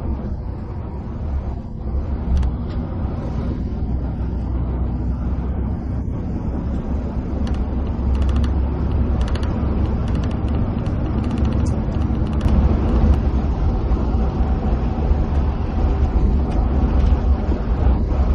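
A coach bus at highway speed, heard from inside the cabin: a steady deep engine and tyre rumble that swells slightly partway through, with scattered light ticks in the middle.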